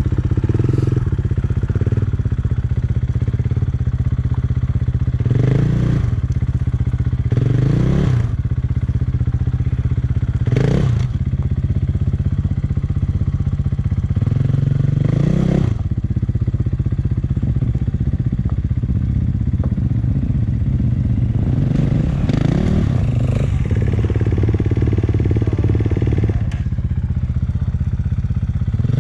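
1996 Maico 440 two-stroke single-cylinder dirt bike engine running under way, opened up in short rising bursts several times, with some clatter.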